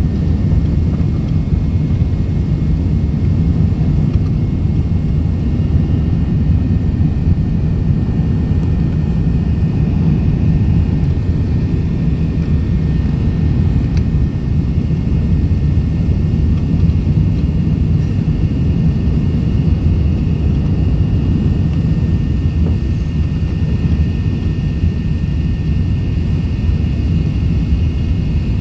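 Four-engine Airbus A380 jet airliner, a steady loud low rumble of engines and airflow with a faint high whine above it.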